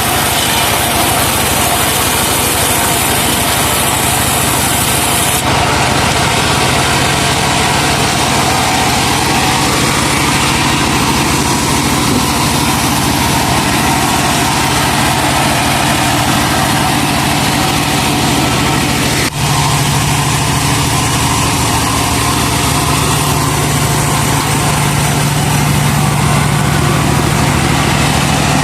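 Engine of a truck-mounted sawmill running steadily. A high hiss above it stops about five seconds in.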